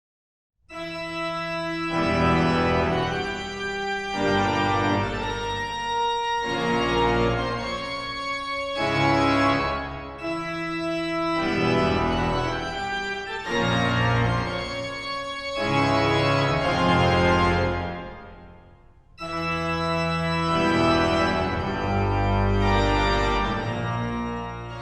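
Pipe organ playing slow, sustained chords, dying away briefly about three-quarters of the way through before resuming.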